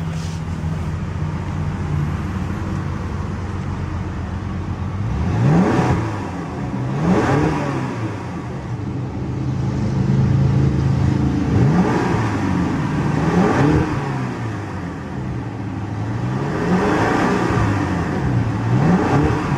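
2012 BMW X5 M's twin-turbo V8 idling steadily for about five seconds, then revved in several quick blips, the pitch rising and dropping back each time. It runs very smooth.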